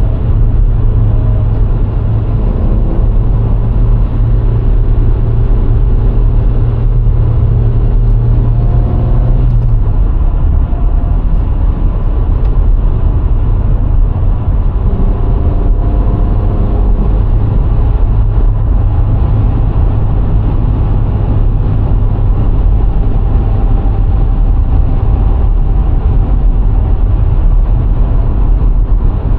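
VW Golf IV 1.6 under way: a loud, steady drone of its four-cylinder petrol engine with tyre and road noise. About ten seconds in, the deep engine hum drops away to a lower, lighter note.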